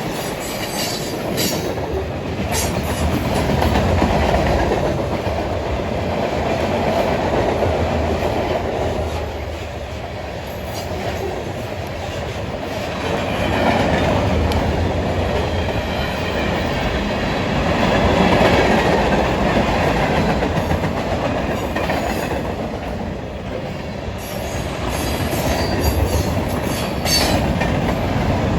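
A train rolling past: its railroad cars' steel wheels clatter over the rails in a continuous rumble that swells and eases every few seconds.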